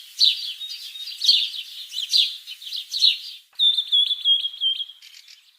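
Small pet parrots calling: a quick run of sharp chirps, about three a second, then a warbling trill about three and a half seconds in that fades near the end.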